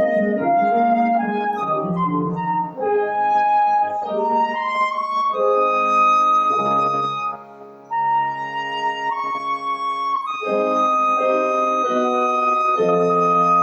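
A flute plays a slow, singing melody over piano accompaniment, holding long high notes.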